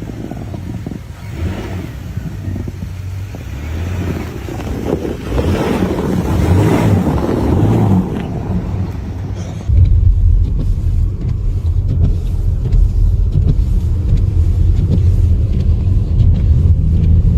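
A motor vehicle running, its noise swelling over the first several seconds. About ten seconds in it gives way abruptly to a loud, steady low rumble.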